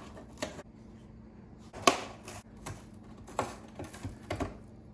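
About six sharp, irregular taps and knocks, the loudest about two seconds in.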